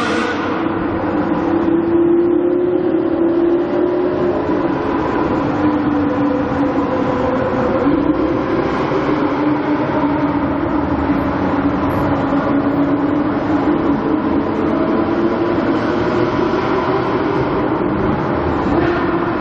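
Car engine running steadily at low revs, its pitch drifting slightly up and down.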